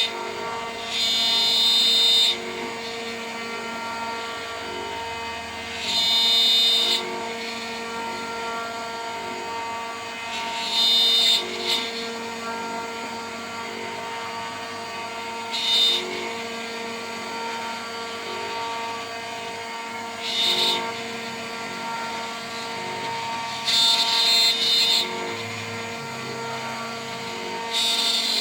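DIY CNC router's spindle running steadily at 14,000 rpm with a 3 mm three-flute end mill. Louder, higher cutting noise comes in bursts every four to five seconds, each about a second long, as the cutter bites into the workpiece.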